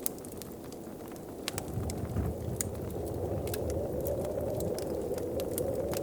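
Wood fire crackling, with scattered sharp pops at irregular intervals, over a steady low whoosh of wind that grows slightly louder about halfway through.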